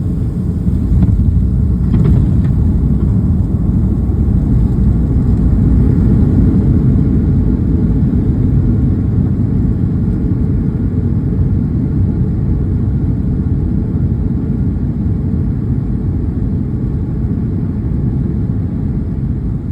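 Boeing 737-800 landing, heard from inside the cabin: a steady low rumble of engines and airflow. It grows louder a couple of seconds in and then slowly eases off.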